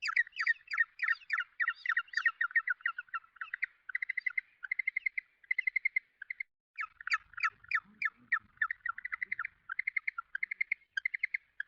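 Penguin calling in a rapid run of short, high chirping notes, about five a second, with a brief break a little past halfway before the calls start again.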